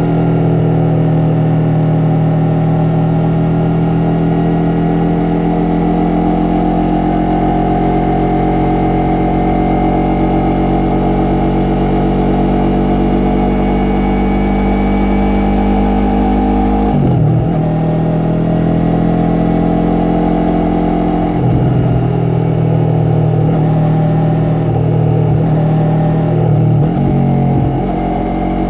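Yamaha MT-03's parallel-twin engine and exhaust running while riding, its note holding nearly steady. It breaks briefly for a gear change a little past halfway and again a few seconds later, then rises and falls several times in the last few seconds.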